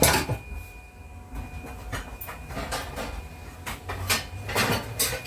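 Kitchen drawers and utensils knocking and rattling during a search for a measuring cup: a sharp knock at the start, then a few more knocks about four to five seconds in.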